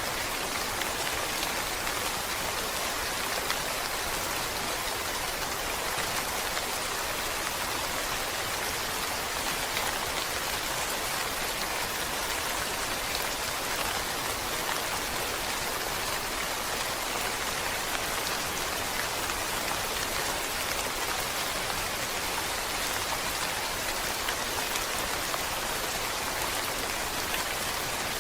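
Steady rain falling: an even, unbroken hiss of many drops, strongest in the upper range, with no change in intensity.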